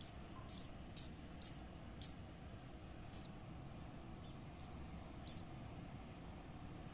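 Small birds chirping: short, high chirps come several in quick succession in the first two seconds, then only now and then, over a low steady background rumble.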